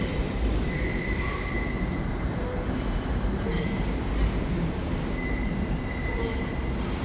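Class 345 electric multiple unit running out of the platform with a steady low rumble, its wheels giving a thin high squeal that comes and goes.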